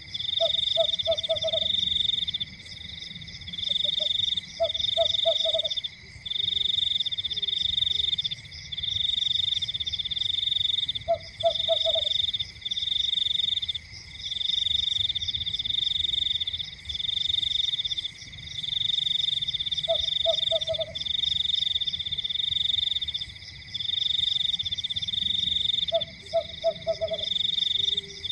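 Night chorus of calling frogs: a high, pulsing trill repeated in phrases of about a second with short gaps, over a steady high whine, and every few seconds a short run of three to five lower clicking croaks.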